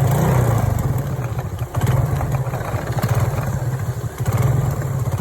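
Motorcycle engine running with a steady low drone, dipping briefly about a second and a half in.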